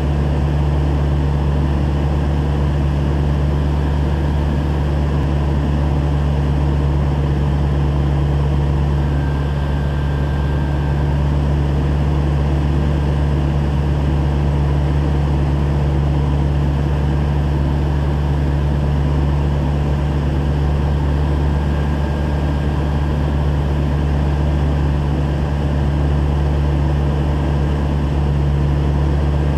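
A steady, loud, low mechanical drone that holds unchanged throughout.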